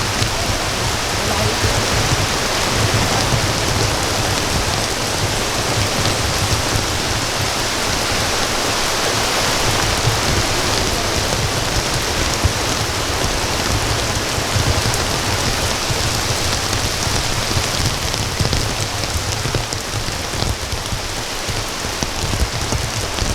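Heavy rain falling steadily, a continuous even hiss of rain with no let-up.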